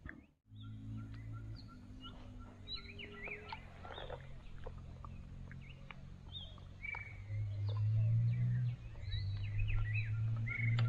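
Several birds chirping and whistling, short rapid calls throughout, one of them repeating a short even note. Under them runs a steady low hum that grows louder about two-thirds of the way in.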